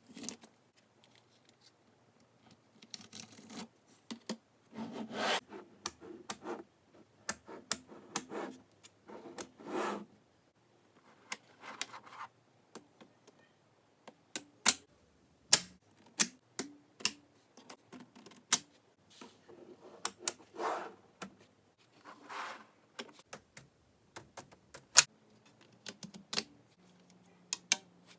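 Small neodymium magnetic balls clicking sharply and irregularly as they snap onto one another, with several short stretches of rattling as clusters of balls are shifted and rolled together.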